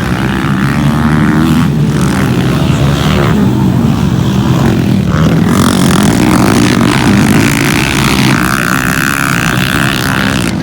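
Motocross motorcycle engines running hard, their pitch rising and falling as the riders work the throttle.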